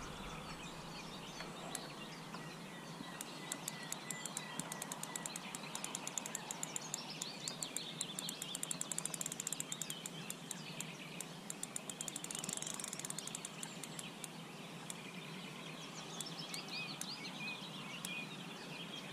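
Birds singing over open water, with runs of rapid, sharp ticking that come thickest in the middle.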